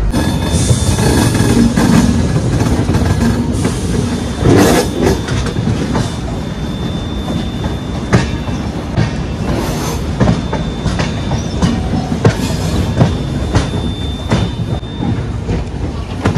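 Express passenger train running over rail joints and points, heard from an open coach doorway: a steady rumble of wheels on track with irregular clacks and knocks, and a thin, steady high-pitched squeal through most of it.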